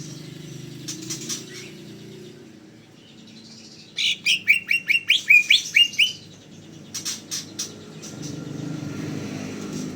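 Cucak ijo (green leafbird) singing: a fast, loud run of about a dozen sharp, down-slurred notes about four seconds in, lasting about two seconds, with short clicky chips a little before and after it. A low steady hum runs underneath at the start and end.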